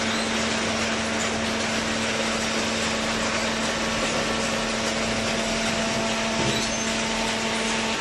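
Hydraulic cardboard baler running: a steady motor hum over an even machine noise, with a brief shift in the sound about six and a half seconds in.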